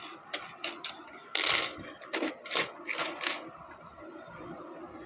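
Perforated strips and small parts of a nut-and-bolt construction kit clicking and clattering as they are handled and picked through, with a louder scrape of rummaging about a second and a half in.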